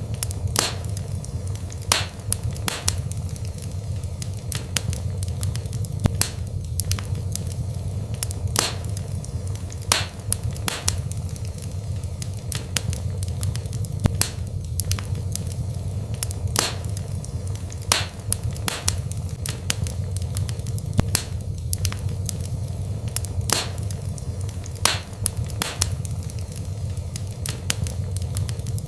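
Wood fire burning in a fireplace: a steady low rumble of flames with sharp crackles and pops about once a second.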